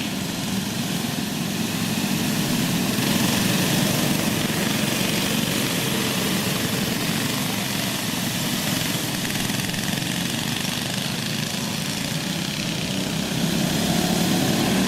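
Small go-kart engines running steadily on a dirt track, an even mechanical drone with no sudden changes.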